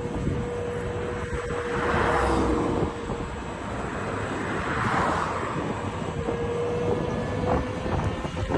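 Sea waves washing onto the shore, swelling twice about three seconds apart, with wind rumble and a steady faint hum underneath.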